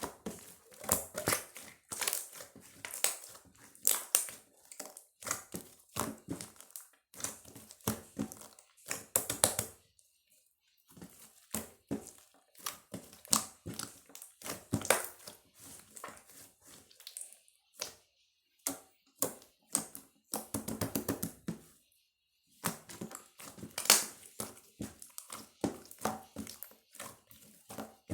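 Small objects being handled close up: irregular clicks, taps and crinkling in clusters, with a quick run of rattling clicks about twenty seconds in.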